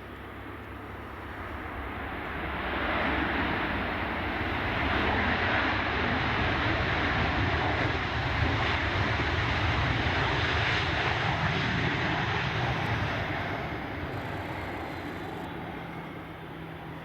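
Jet aircraft engines passing, the rushing noise swelling over the first few seconds, holding loud, then fading away near the end.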